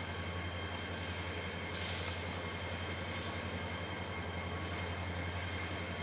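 Diesel locomotives of a Kansas City Southern-led freight train rolling past with a steady low engine rumble. Three short hisses come through about two, three and four and a half seconds in.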